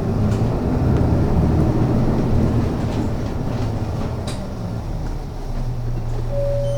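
Inside a city bus while it drives: engine and road rumble. It eases into a steadier low engine hum near the end, when a steady high tone also starts.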